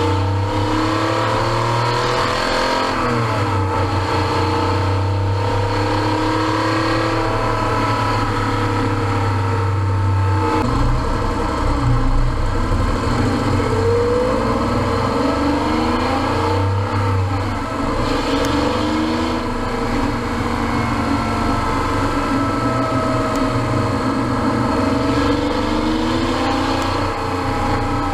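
1989 Porsche 911 Carrera 3.2's air-cooled flat-six, running through a SCART Riva muffler with the catalytic converter bypassed, under way. The engine pitch climbs and falls back again and again as the car accelerates and shifts.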